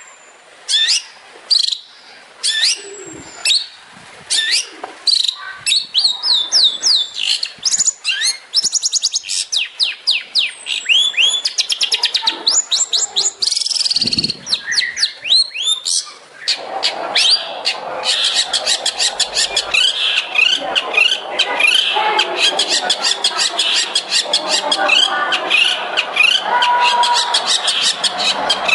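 Long-tailed shrike (cendet) singing: rapid runs of sharp, repeated falling notes, the 'tembakan' bursts the bird is kept for. In the second half the notes come faster and run together into a dense, continuous stream.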